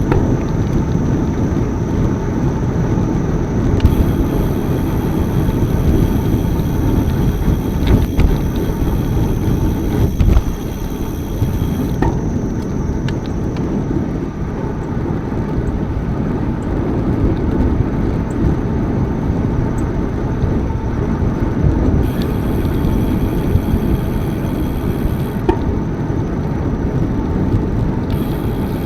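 Wind buffeting the microphone of a moving bicycle: a steady low rumble.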